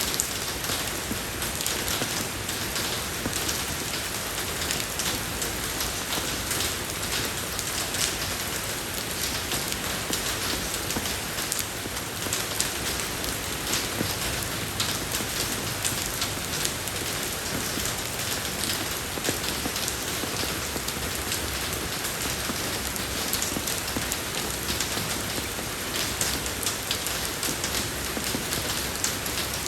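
Steady rain falling on a road surface, an even hiss thick with crackling drop impacts.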